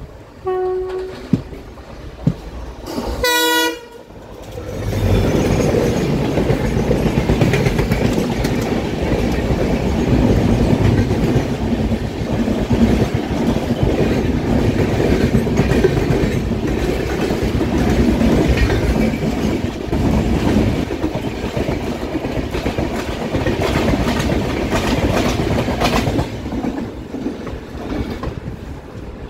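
Horn of an Indian Railways WDP4D diesel locomotive: a short note, then a louder blast about three seconds in, as the superfast express comes through at speed. The locomotive and a long rake of passenger coaches then rush past, wheels rumbling and clattering over the rail joints, easing off near the end.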